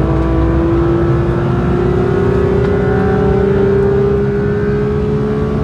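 Porsche 992 GT3's naturally aspirated 4.0-litre flat-six pulling hard in fourth gear, its note rising steadily as the car accelerates, heard from inside the cabin.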